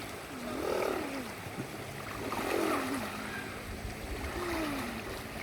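Running water with several rising-and-falling calls, each under a second, gliding up and down in pitch.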